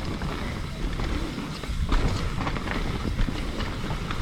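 Mountain bike rolling along a dirt trail: tyres rumbling over the ground, with the bike rattling and clicking over bumps.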